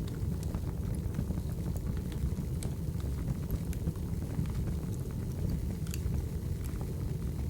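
Firewood burning: a steady low rush of flame with scattered, irregular sharp crackles and pops.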